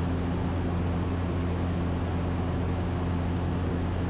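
Ikarus C42 light aircraft's engine and propeller running steadily in cruise, heard from inside the cockpit as an even drone with a low hum and a few steady tones.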